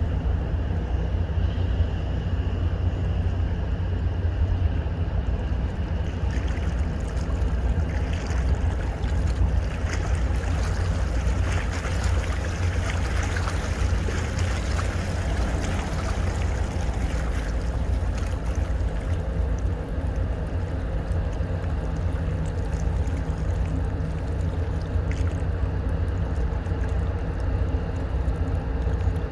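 Steady low rumble of boat engines with water wash. A louder hiss of churning water swells in the middle.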